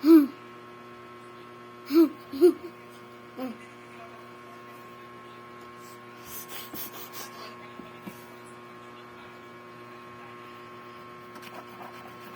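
Steady electrical hum throughout, with four short voiced sounds in the first few seconds and faint crackly noise around the middle.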